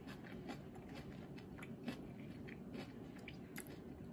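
A person chewing a mouthful of omelet with pico de gallo: faint, irregular small clicks and soft crunches of food being chewed.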